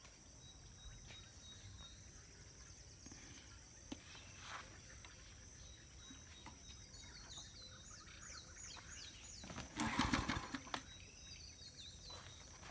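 Quiet rural background with a bird giving a quick run of about ten descending high chirps. About ten seconds in comes a single loud rasp lasting about a second.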